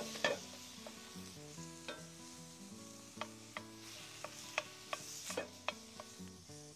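Ground venison sizzling in a hot pan while a utensil clicks and scrapes against the pan as the meat is chopped up and stirred, with a sharp strike right at the start and a cluster of clicks about five seconds in.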